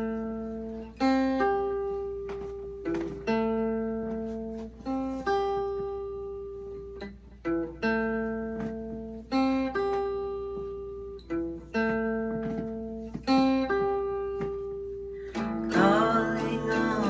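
Acoustic guitar playing a song's intro: a slow, repeating figure of picked notes, each left to ring out and fade. About 15 seconds in, the playing becomes fuller and busier.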